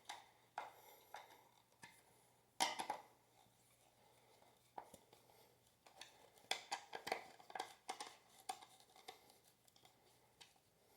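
Faint metal clicks and scrapes of a nut driver turning a bolt tight on a ceiling-fan part. One louder knock comes about a quarter of the way in, and a run of quick clicks comes past the middle.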